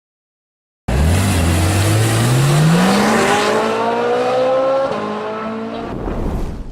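A car engine accelerating hard. It starts abruptly, and its pitch climbs steadily. The pitch dips once at a gear change about five seconds in, climbs again, then fades near the end.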